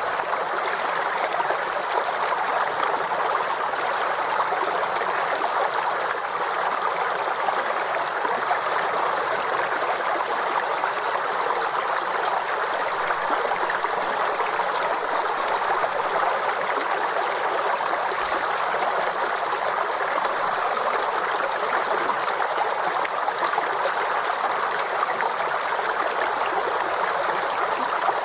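Forest stream running over stones, a steady babbling and trickling flow with no breaks.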